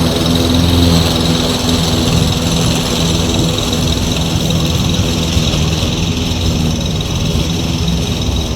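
Toro Recycler self-propelled gas push mower's small engine running steadily under load, slowly growing fainter.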